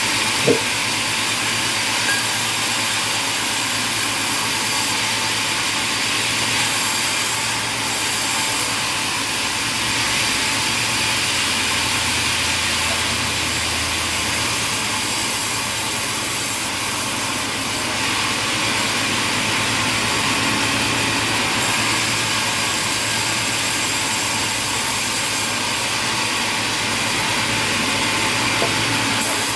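Sawmill machinery running with a steady, even noise, and a single sharp knock about half a second in.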